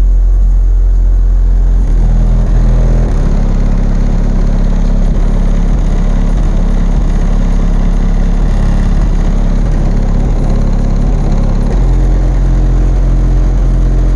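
Very loud bass-heavy music played through Memphis Audio Mojo and M6 15 car subwoofers, with deep, sustained bass notes changing every second or so. The bass is strong enough to shake the car.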